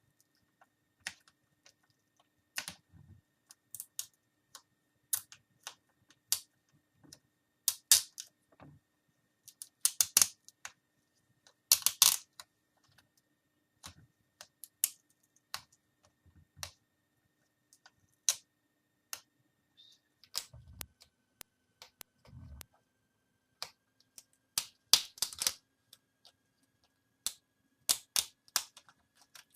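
Irregular sharp clicks and taps of hands working on a laptop's plastic screen assembly while tape and the video connector are worked free, with a couple of dull knocks about two-thirds of the way through.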